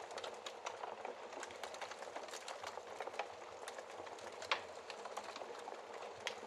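Wood fire burning in a fireplace: irregular crackles and snaps over a steady hiss, with one louder pop about four and a half seconds in.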